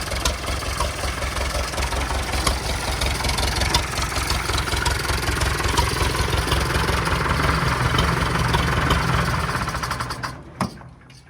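International A414 tractor engine running steadily with a regular low beat, then shut off about ten seconds in; it dies away quickly and one sharp click follows.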